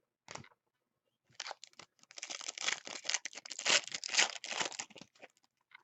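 A foil trading-card pack being torn open and its wrapper crinkled: a short rustle, then about four seconds of tearing and crinkling.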